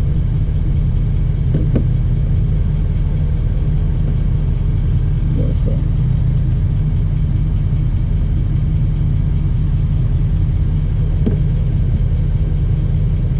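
Steady low rumble of an idling vehicle engine, with a few faint light clicks.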